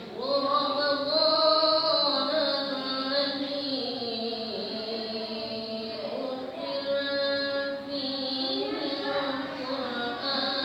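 A solo voice reciting the Quran in melodic tilawah style, holding long notes with ornamented turns of pitch.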